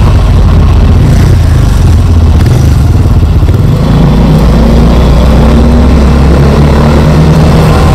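Trabant's two-stroke engine running steadily as the car drives, a loud low drone heard from inside the cabin.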